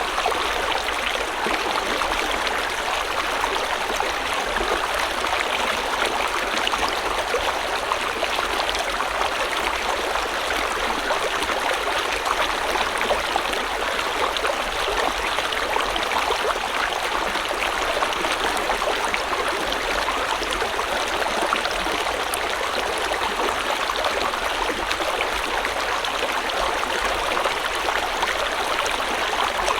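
A river or stream flowing steadily over stones, a continuous splashing and babbling rush with fine trickling detail.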